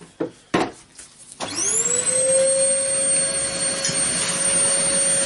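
A vacuum cleaner switched on about a second and a half in. Its motor whine rises quickly to a steady high pitch over a rushing hiss, running to clear dust from the disassembled sander.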